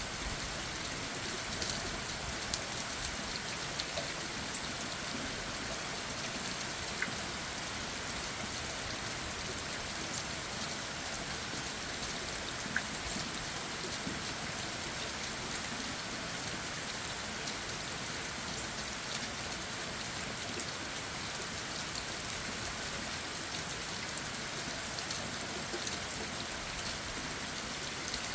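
Steady rain falling on leaves and the ground, with a few single drops ticking out louder now and then.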